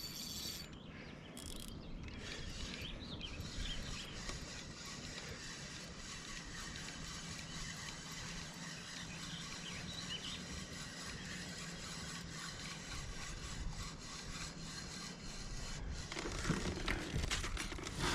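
Fishing reel being cranked, a fast steady clicking as a hooked rainbow trout is reeled in, getting louder near the end.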